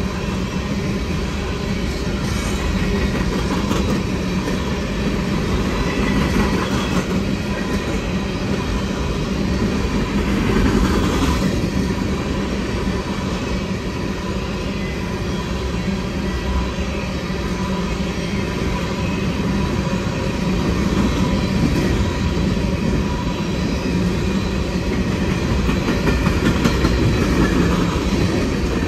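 Empty open-top coal cars rolling past on steel wheels: a steady rumble with the clatter of wheels over rail joints and a faint high wheel squeal running underneath.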